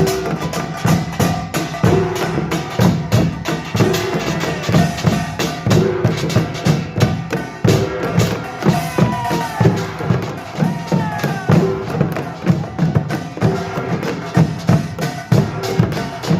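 Korean pungmul percussion band playing: kkwaenggwari, janggu and buk struck together in a fast, dense, steady rhythm, with gliding higher tones above the drumming.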